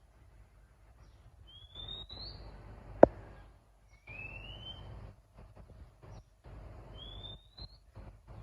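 A bird repeating a single rising whistled note three times, each note under a second long and about three seconds apart. A sharp click about three seconds in is the loudest sound.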